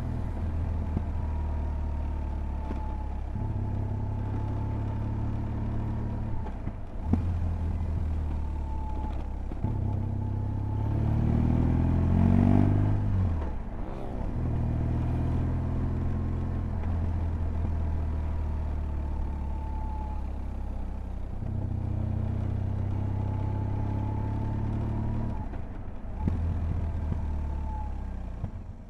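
BMW R1200GS boxer-twin engine pulling hard under way, its pitch climbing through the revs and dropping back at each gear change, several times over. The loudest moment comes a little before halfway, with a steep rise and fall in pitch.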